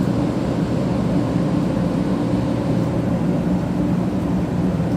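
Steady hum of a 500 series Shinkansen train standing at the platform, its onboard equipment such as air-conditioning running, with a few faint steady tones and no change in level.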